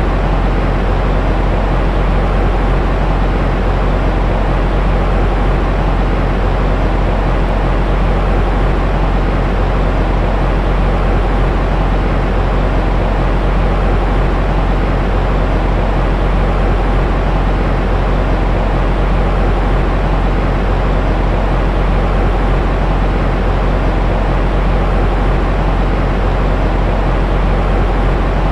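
Steady white noise for soothing a baby to sleep: an unchanging hiss with most of its weight in the deep low end, so it sounds rumbling rather than bright.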